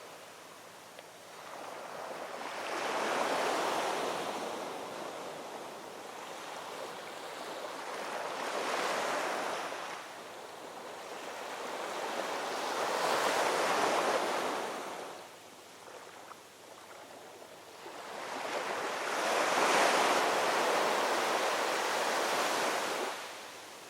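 Ocean waves rolling in and breaking on a shore, each one a swelling rush of surf that fades before the next. Four waves come in, the last the loudest.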